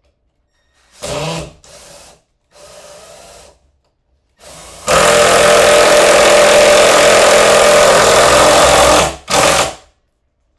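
Power drill driving a screw into wood: a few short trigger pulses, then a steady run of about four seconds, then one last short burst to seat the screw.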